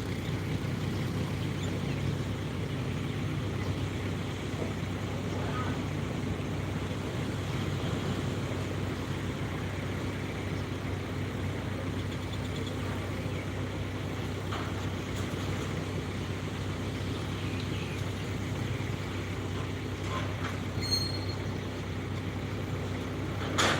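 Diesel engine of an excavator running at a steady speed, a constant low hum. A sharp knock comes near the end.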